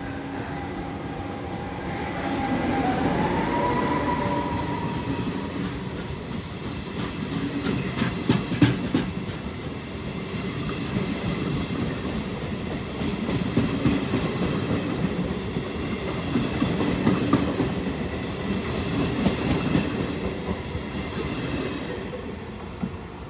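FS class E464 electric locomotive hauling passenger coaches past along the platform. A whine rises in pitch about three seconds in as the locomotive goes by, then wheels clatter over rail joints and points, with a run of sharp clicks, as the coaches roll past and fade away near the end.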